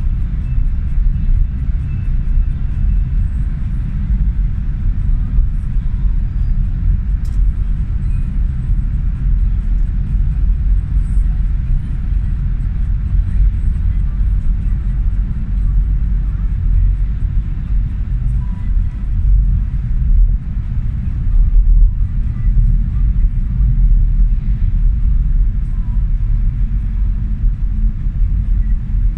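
Steady, loud low rumble of trucks in slow motorway traffic.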